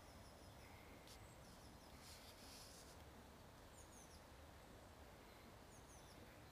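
Near silence: faint outdoor ambience with a few short, high bird chirps now and then, and a brief soft hiss about two seconds in.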